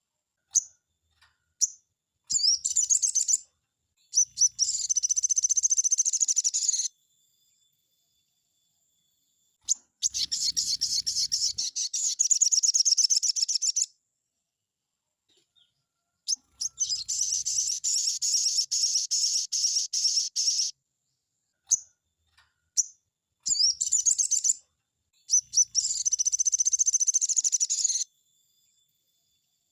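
Crimson sunbird (sogon) singing in five bouts of rapid, high, fast-repeated trilling notes, each one to four seconds long. Short single chips fall between the bouts.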